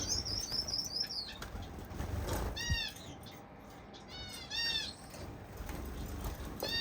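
Caged finches: a rapid high twittering song at the start, then short arched call notes, one at a time or in pairs, several times, with wings fluttering and birds stirring in the cage.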